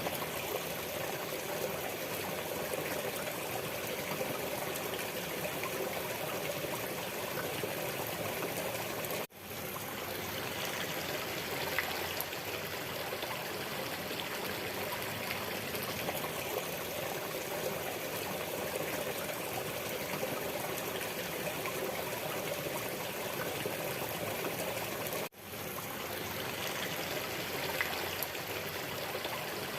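Waterfall: a steady rush of falling and streaming water. It briefly cuts out twice.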